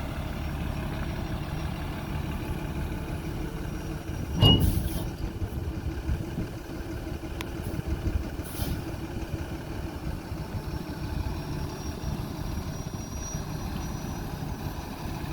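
Diesel engine of a Freightliner M2 box truck idling steadily, with one short, loud burst about four and a half seconds in.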